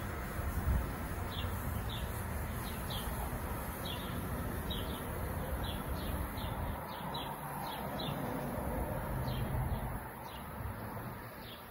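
A small bird chirping over and over, short high chirps about one or two a second, over the low rumble of an NJ Transit commuter train pulling away, which fades toward the end.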